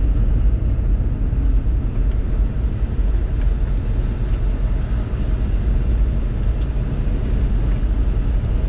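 Steady road and engine noise inside a moving semi truck's cab, a heavy low rumble that holds even throughout.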